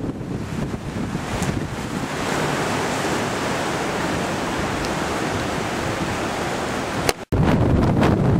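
Storm wind and surf making a steady rushing noise, with wind buffeting the microphone. Just after seven seconds the sound drops out for an instant, then comes back with heavier low wind rumble on the microphone.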